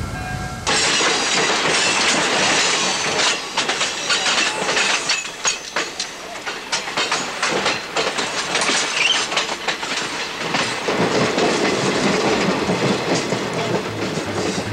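Passenger train heard from on board a moving coach: a loud, steady rush of wind and wheel noise with frequent irregular clicks of the wheels over the rails. It starts abruptly just under a second in.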